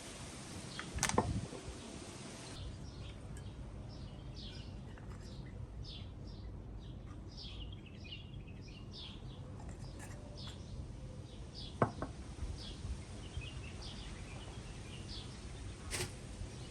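Small birds chirping in short, repeated high calls over a steady low background rumble, with a few sharp knocks about a second in, near twelve seconds and near the end.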